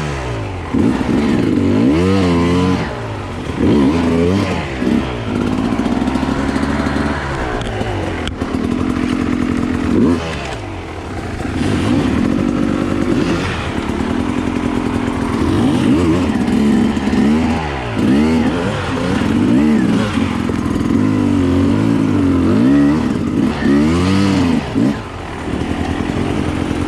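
Enduro dirt bike engine, recorded onboard, revving up and down over and over as the throttle is opened and closed, with short dips in engine speed every second or two.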